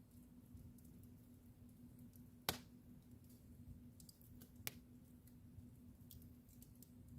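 Wood fire crackling quietly, with two sharp pops, the louder one about two and a half seconds in and another about two seconds later, and a few fainter ticks between them. A faint steady hum runs underneath.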